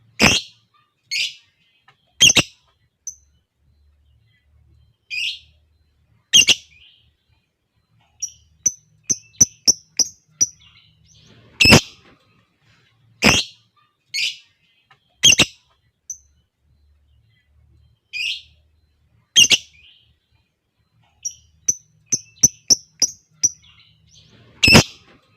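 Lovebird calling: sharp, shrill chirps every second or two, with two runs of quick, repeated ticking chirps, about four a second, partway through and near the end.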